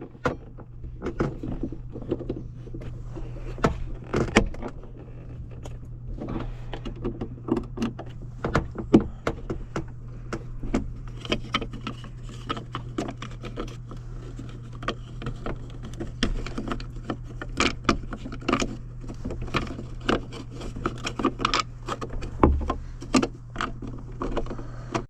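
A screwdriver and metal parts on a corn planter row being worked by hand to tighten a loose fitting: a run of irregular clicks, clinks and scrapes. A steady low hum sits under them throughout.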